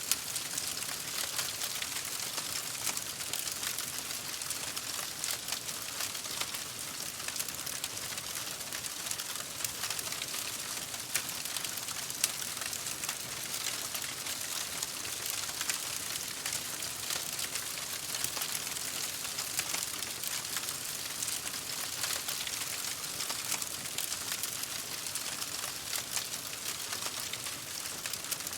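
Campfire burning: a steady hiss with dense crackling and many small sharp pops, and a couple of louder pops right at the start and about twelve seconds in.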